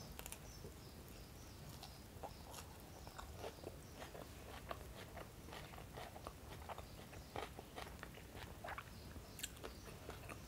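Close-up mouth sounds of a person biting into and chewing a sushi-style çiğ köfte roll wrapped in flatbread: faint, irregular wet clicks and smacks as the food is chewed.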